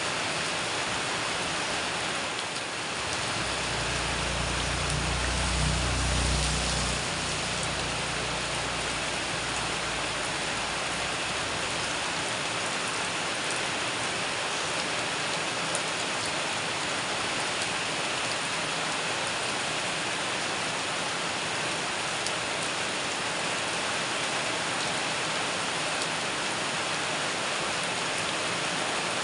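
Steady rain falling on corrugated metal roofs, an even hiss of drops. A low rumble swells and fades between about four and seven seconds in.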